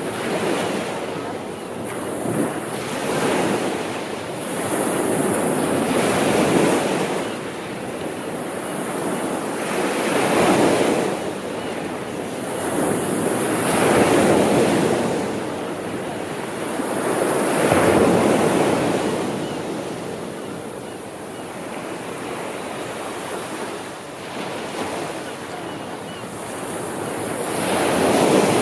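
Ocean waves breaking on the shore, a continuous wash of surf that swells and falls back every four seconds or so.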